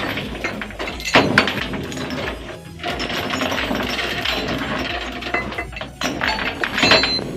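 Metal clanking and rattling of the chain lashings that hold a truck to a RoRo rail wagon as they are being unfastened, with sharp metallic knocks about a second in and near the end.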